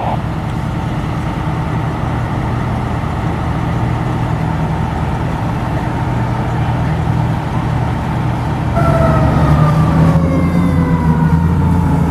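Fire truck's engine running with a steady low drone. About nine seconds in, a louder siren tone comes in and slowly falls in pitch.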